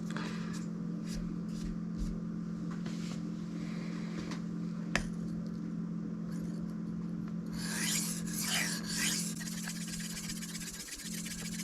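Steel knife blade being drawn in passes across a Shapton Kuromaku 1000-grit whetstone, each stroke a scraping hiss; the strokes come light and spaced at first, then a quicker, louder run about eight seconds in. A steady low hum runs underneath, and there is one sharp click about five seconds in.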